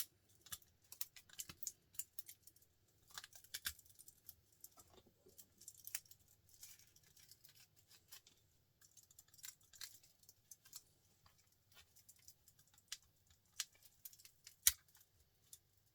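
Scattered light clicks and taps of metal on metal as a small printer motor is handled, with one sharper click near the end.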